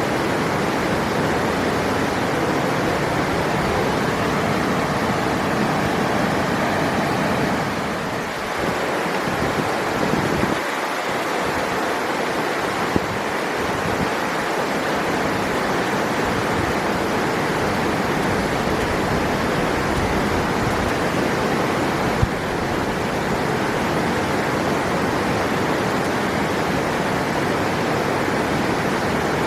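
River water rushing in a steady, even roar of flowing water, with two faint ticks partway through.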